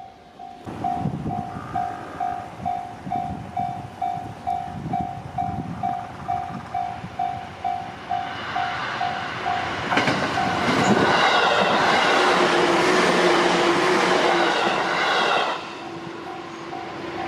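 Japanese level-crossing warning bell ringing about twice a second, then an electric train passing through the crossing. The train noise swells and is loudest from about ten to fifteen seconds in, drowning out the bell, which is heard again once the train has gone by.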